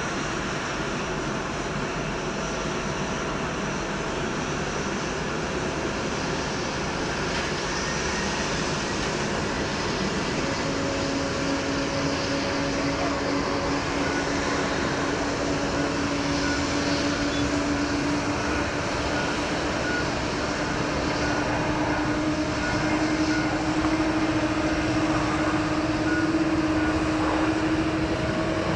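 Jet airliner engines running, a steady rushing noise that grows gradually louder. About ten seconds in a hum joins it and slowly rises in pitch.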